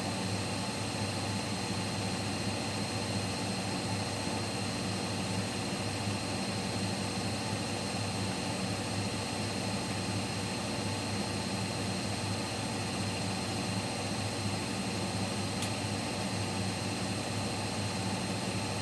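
Siemens Siwamat Plus 574 front-loading washing machine in its final spin at 800 rpm: a steady drum-and-motor hum with constant tones.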